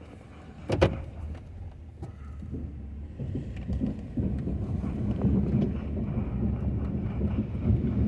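Ford F-250 pickup with a snow plow: a single sharp bang about a second in, then a rough low rumble from the truck that builds from about three seconds in and stays loud.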